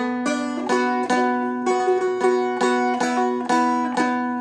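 Seagull Merlin M4, a four-string fretted dulcimer-style instrument, picked slowly: a melody of single plucked notes, about two or three a second, over a drone string that rings steadily underneath.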